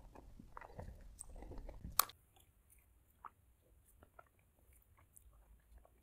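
Close-miked mouth sounds of a person eating ice cream: chewing with small crunches and wet clicks for the first two seconds, then a sharp click. After that come quieter, sparser wet mouth clicks from eating soft vanilla-blueberry ice cream off a spoon.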